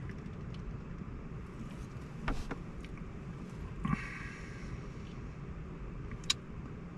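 Steady low rumble of a rushing river, muffled from inside a truck cab, with a few small clicks and knocks over it.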